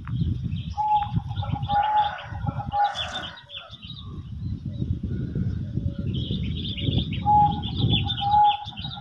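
Birds chirping, with a call of held, steady whistled notes about a second in and again near the end, over a constant low rumble.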